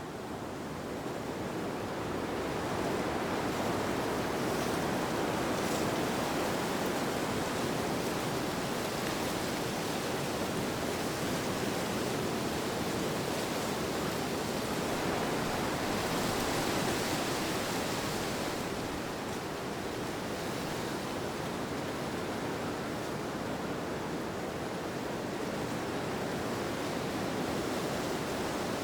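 Steady rushing wind, swelling over the first few seconds, with a hissier gust around the middle before it eases slightly.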